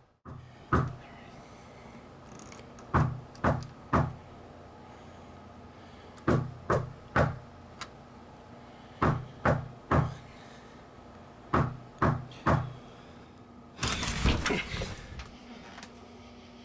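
Knocking on a front door in sets of three, with the knocks about half a second apart and a new set every three seconds or so. About fourteen seconds in comes a longer rattling clatter of about a second and a half.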